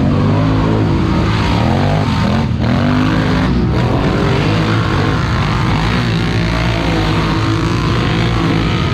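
Loud truck engine revving hard, its pitch rising and falling over and over.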